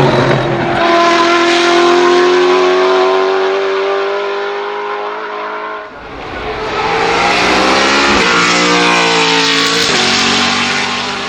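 Brabham BT62's 5.4-litre V8 under hard acceleration. The engine note climbs through the revs, breaks off briefly about six seconds in, climbs again, then drops in pitch near ten seconds at a gear change.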